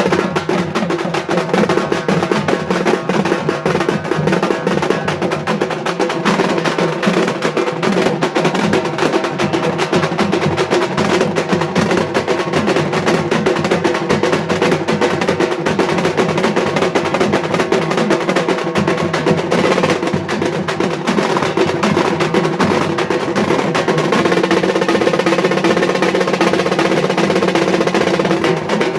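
Halgi frame drums beaten with sticks in a fast, dense, continuous rhythm, the strokes running together almost like a roll over a steady ringing drum tone.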